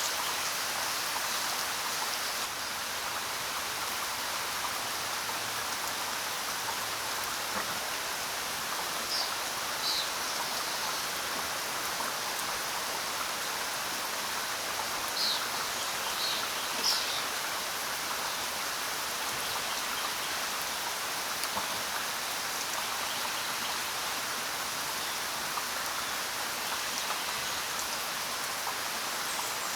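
Steady rain falling, an even hiss of drops. A few brief, high bird chirps cut through it between about 9 and 17 seconds in.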